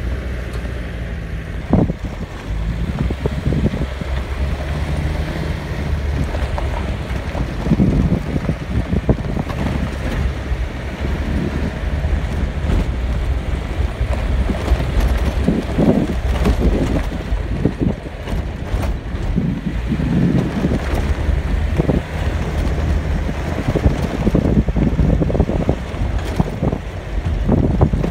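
Wind buffeting the microphone: a steady low rumble with irregular gusts that swell and fall.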